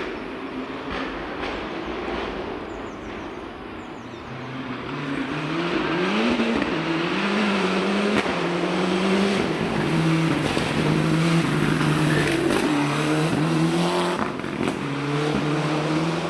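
Rally car engine at full throttle on a stage, revving up and shifting through the gears again and again. It grows louder about four seconds in and stays loud for the rest.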